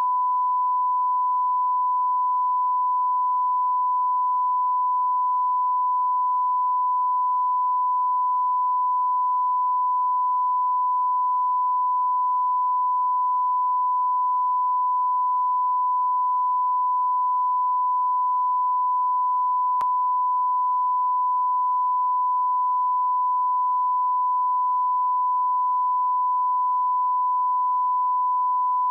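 A single unbroken electronic sine tone, pitched high like a test-tone bleep, held at a constant pitch and level. There is a faint tick about two-thirds of the way through.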